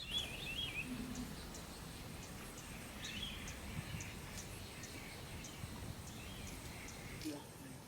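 Outdoor ambience: a bird gives short warbling calls three or four times, over faint insect ticks repeating two or three times a second and a low rumble of noise.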